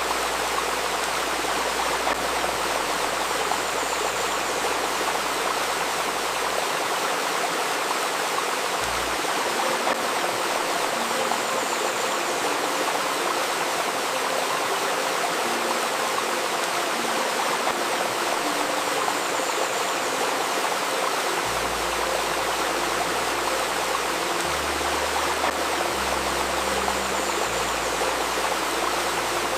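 A babbling river stream flowing steadily, with a faint steady 528 Hz tone and soft, low held notes underneath that change every few seconds.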